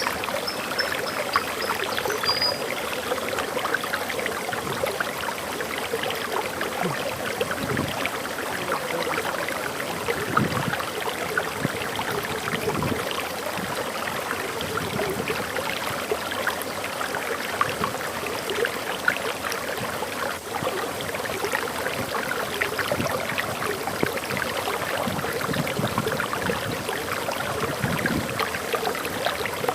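Waterfall rushing and splashing steadily, with a few faint bird chirps in the first couple of seconds.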